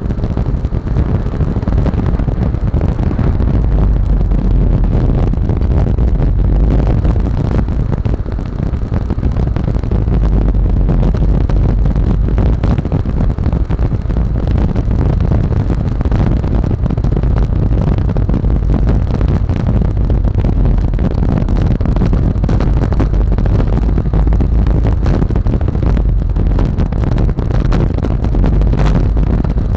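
Yamaha Lexi scooter running steadily on the move, under heavy wind rumble on the microphone, with a thin high whine throughout.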